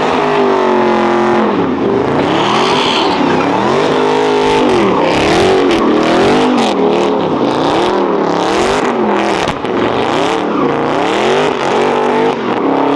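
Car engine revving hard and falling back over and over, rising and dropping in pitch roughly once a second, as the driver works the throttle to slide the car at a car meet.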